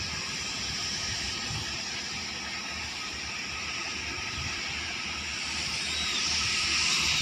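Low rumble of tugboat diesel engines under a steady hiss, growing slightly louder near the end.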